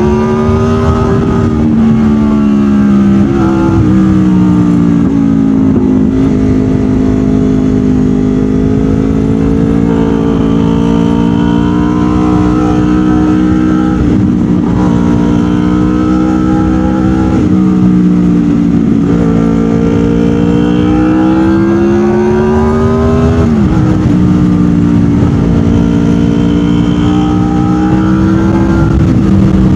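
Honda VFR800 VTEC's V4 engine running through an aftermarket Delkevic exhaust with Lextek headers while riding: a loud engine note that climbs under throttle and drops sharply at several gear changes, then climbs again.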